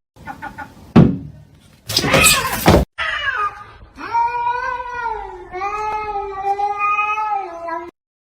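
A domestic cat yowling in one long, drawn-out meow of about five seconds, its pitch dipping and then rising. It follows a few short sounds and a loud harsh burst of noise about two seconds in.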